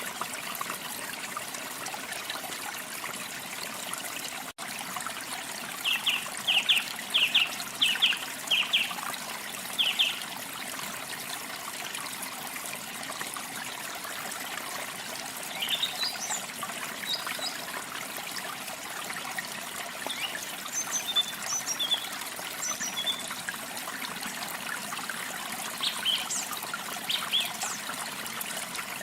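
Steady trickle of running water with songbirds calling over it: a run of quick short notes about six to ten seconds in, then scattered higher chirps later on. The sound cuts out for an instant about four and a half seconds in.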